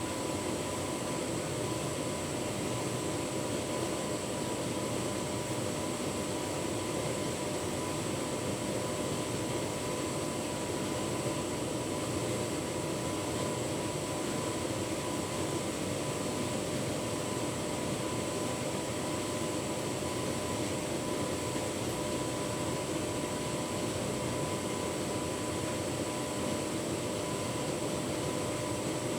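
Tumble dryer running with a full load of bedding: a steady whir of the drum and fan, with a thin steady tone over it.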